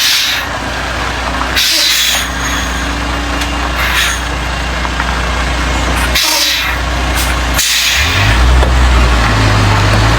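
Heavy truck's diesel engine running steadily, broken by several short air hisses typical of air brakes. Near the end, a deeper and louder engine note comes in.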